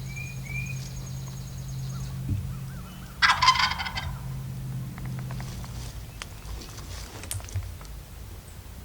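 Wild turkey gobbler gobbling once, loud and close, about three seconds in, over a steady low hum.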